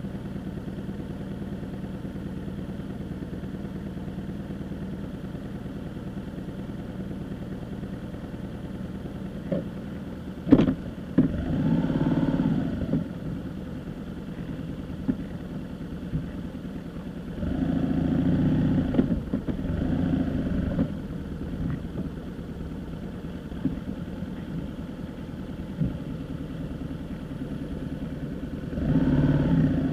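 A vehicle engine running steadily, swelling louder three times: about a third of the way in, past the middle, and at the end.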